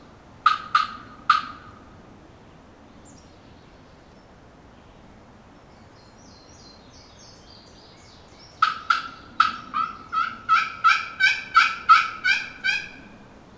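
Turkey yelping: three short yelps near the start, then after a pause a long, evenly paced run of about a dozen yelps, roughly three a second, rising slightly in pitch. Faint high chirps from a small bird come between them.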